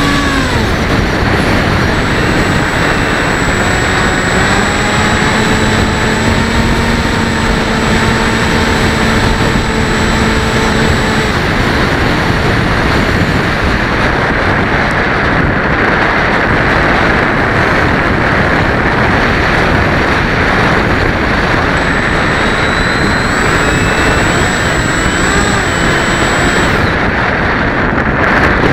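Rushing airflow and wind buffeting the microphone of a camera on a Bixler 1.1 RC foam plane in flight, with the whine of its electric motor and propeller. The whine drops in pitch at the start, holds steady for several seconds, then sinks under the wind noise and returns faintly near the end as the throttle changes.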